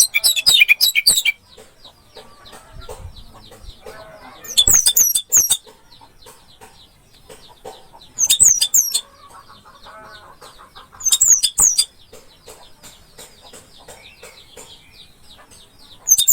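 Orange-headed thrush singing: short, loud phrases of rapid high sweeping notes, repeated every three to five seconds, over a steady background of softer high chirping.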